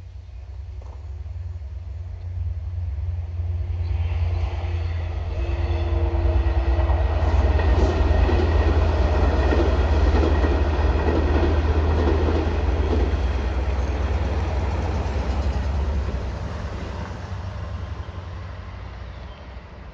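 Long Island Rail Road diesel-hauled train of bilevel coaches passing over a railway bridge: a low engine drone with wheel and rail noise that builds over the first few seconds, is loudest in the middle and fades away near the end.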